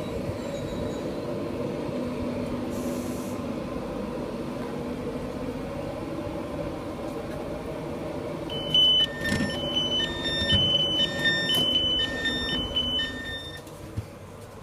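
Passenger train standing at the platform with a steady engine and equipment hum. About halfway in, its door-closing warning starts: short electronic beeps alternating between a higher and a lower tone, about two a second for some five seconds. Near the end comes a single knock as the doors shut.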